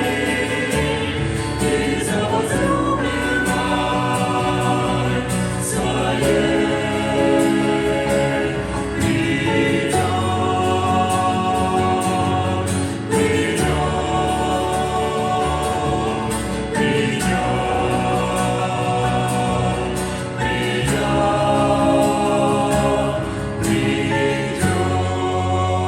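Choir singing a Christian song in sustained chords that change every three to four seconds.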